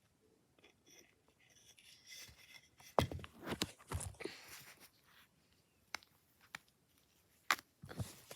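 A coat hanger being handled: rubbing and rustling at first, then a quick cluster of sharp knocks and a few scattered single clicks.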